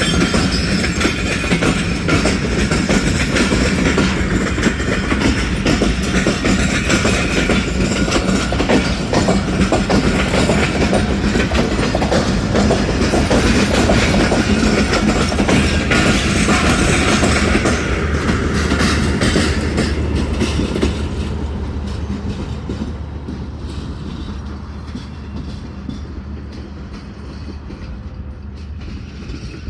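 Express passenger train passing close by, its wheels clattering over the rail joints. The sound starts to fade about two-thirds of the way through as the train moves away.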